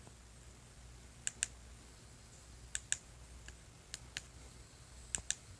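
Scattered sharp clicks and taps, about nine of them, several in quick pairs, over a low steady hum.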